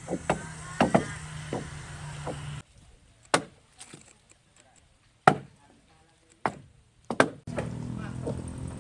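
Axes or adzes chopping into a wooden log as it is hewn into a dugout canoe: a dozen or so sharp, irregular strikes. A steady low hum sits under the first few seconds, stops, and comes back near the end.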